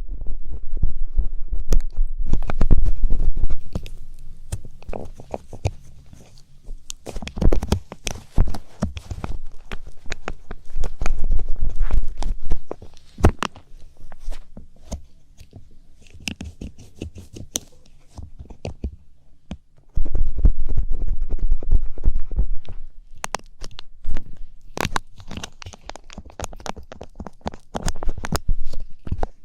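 ASMR ear cleaning: a light-up ear pick scratching and scraping close on the microphone, giving dense crackles and clicks, with heavy low rumbling near the start and again about two-thirds of the way through.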